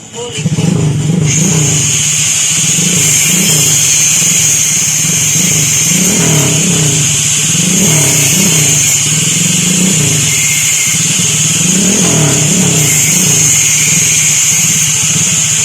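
Honda XRM 125's single-cylinder four-stroke engine, upgraded with a big-valve four-valve head, a 72 mm cylinder and a 32 mm carburettor, running and being revved repeatedly. It comes in less than a second in, and its pitch rises and falls with several blips of the throttle.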